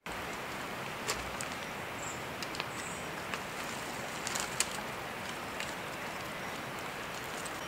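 Outdoor forest ambience: a steady hiss with a few sharp small clicks and a couple of brief high bird chirps.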